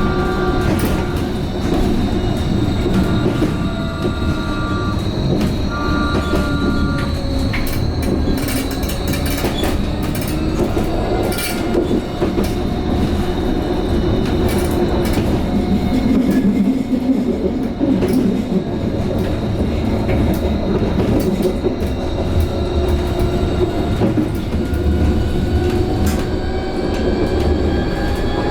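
Vossloh Tramlink light-rail tram under way: a steady rumble of wheels on rail with some clatter, and a whine from the electric drive that slowly slides up and down in pitch. A short two-tone beep sounds repeatedly in the first few seconds.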